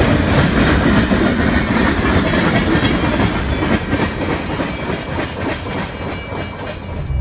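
Freight cars of a passing train rolling by, their steel wheels clattering and clicking on the rails, growing somewhat quieter over the second half as the end of the train moves away.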